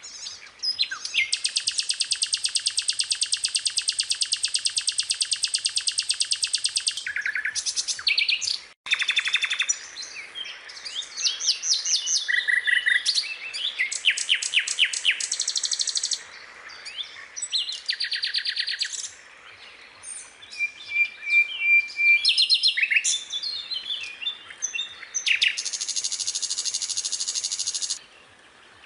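Skylark singing a long, varied song of rapid trills and chirping phrases. A long fast trill comes about a second in, and another near the end.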